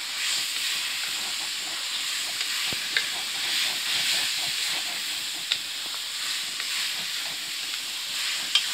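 Fenugreek leaves and chicken sizzling as they are fried dry in a metal pan, the water they released now cooked off, while a wooden spatula stirs and scrapes them. A few sharper clicks of the spatula against the pan stand out over the steady sizzle.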